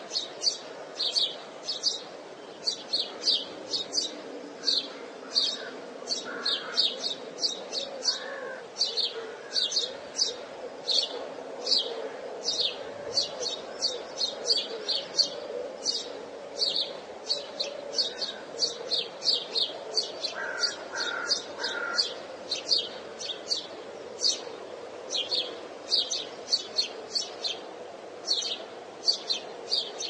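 Small birds chirping: short, high, sharp chirps repeated about two or three times a second, over a low steady background.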